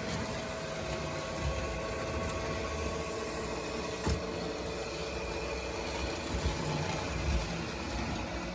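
Model trains running on the layout: a steady electric motor hum and rumble of wheels on track, with a single sharp click about four seconds in.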